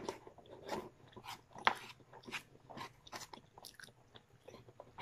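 A person chewing a mouthful of food close to the microphone, with irregular crisp crunches about two or three times a second.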